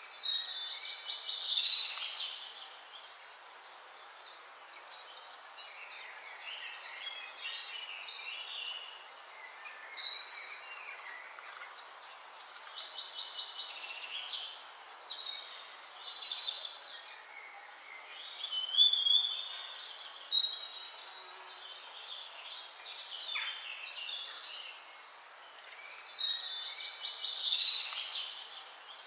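Songbirds singing: a loud, quick, warbling song phrase comes every several seconds, with fainter bird calls and song in between.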